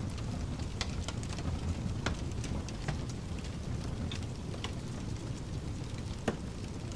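Wood fire crackling, with scattered sharp pops and the loudest pop about six seconds in, over a steady low rushing pink noise.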